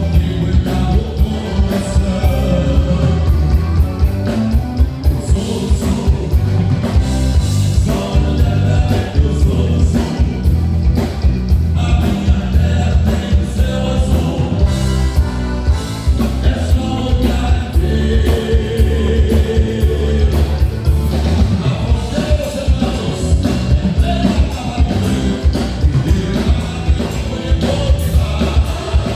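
Live band playing gaúcho music with singing over a steady beat and heavy bass.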